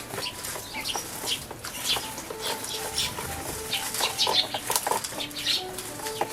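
Eurasian tree sparrows bathing in a bird bath, fluttering their wings in the water in quick, repeated splashy bursts.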